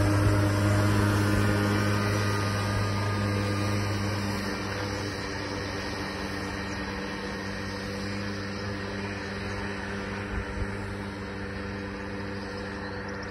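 Casalini Sulky microcar's 50cc two-stroke engine running at steady revs as the car drives away, growing fainter from about four seconds in.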